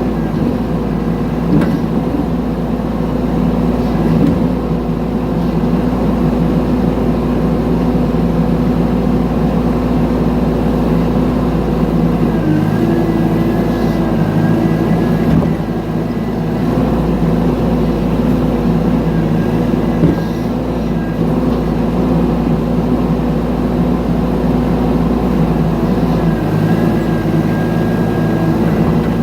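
Mini excavator engine running steadily while digging, with a thin high whine coming in twice and a few faint knocks.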